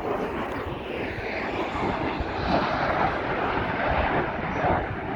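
Airplane engine noise of an aircraft flying past, building to its loudest in the middle and easing slightly near the end.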